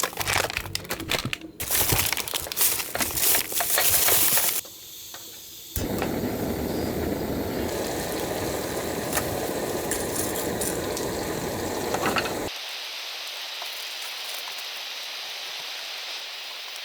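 Crackling, hissing noise full of small clicks, changing abruptly a few times, then settling into a steady high hiss for the last few seconds.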